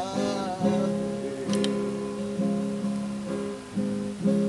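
Viola caipira strumming chords, each chord struck and left to ring before the next, about once a second.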